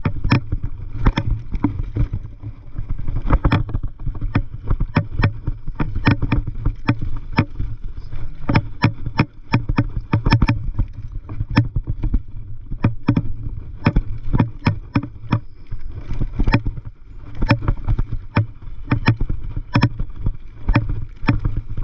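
Mountain bike rattling over a rough dirt trail: frequent irregular knocks and clicks, several a second, over a steady low rumble.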